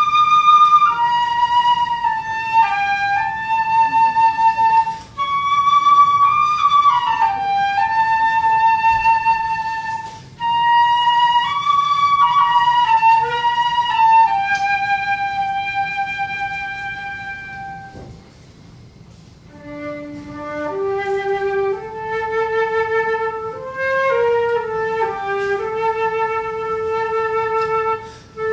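Solo flute playing a slow melody in its upper range, with one sliding note about six seconds in. A long held note fades out around eighteen seconds in, and after a short breath-length pause the flute goes on with phrases in a lower register.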